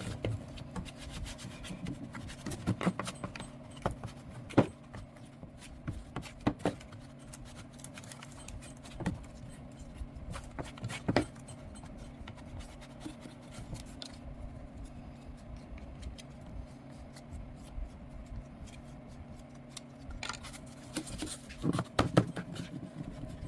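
Bondo Glass filler being mixed with cream hardener, a spreader scraping and folding the stiff, cold paste on a mixing board in irregular strokes and taps. A steady low hum runs underneath.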